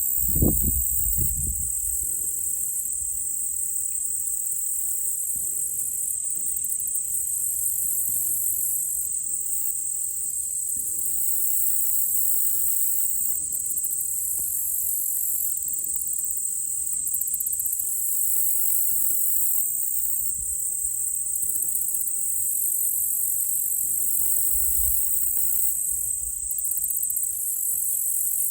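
A steady, high-pitched chorus of crickets and other insects. About half a second in there is a single low, dull boom, a distant gunshot from a shooting range.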